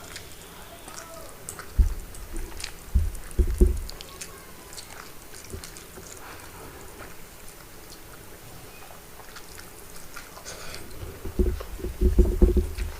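A person eating poached eggs quickly at close range: wet chewing, mouth and lip smacks, and scattered soft clicks and thumps, busiest at about two to four seconds in and again near the end.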